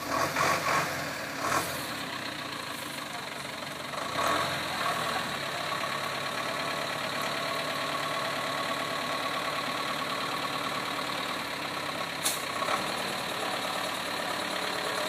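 Toyota 4x4's engine running steadily at low speed as it crawls through an eroded trail, with a few knocks from the vehicle over the ruts and one sharp click about twelve seconds in.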